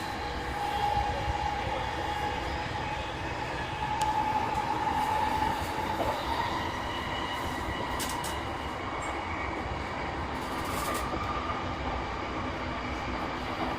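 E233-3000 series electric train running between stations, heard from inside the car: a steady rumble of wheels on rail with an even whine from the drive running under it, and a few clicks over rail joints.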